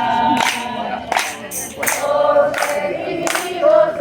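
A group singing a Christian worship song, with a steady beat of sharp percussion hits about every 0.7 seconds.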